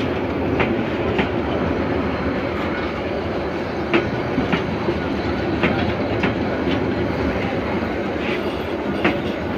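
Passenger train coaches rolling past at close range: a steady rumble of wheels on the track, broken by sharp clicks at uneven intervals.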